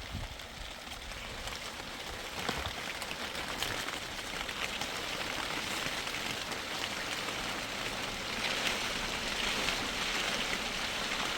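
Steady rain falling, an even hiss that grows a little louder toward the end, with a couple of light taps a few seconds in.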